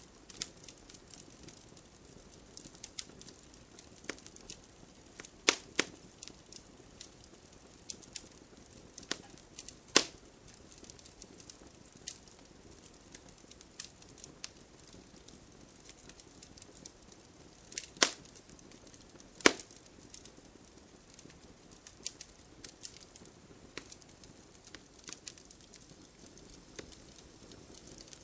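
Wood fire crackling with irregular sharp pops, several louder snaps standing out, over a faint steady patter of rain.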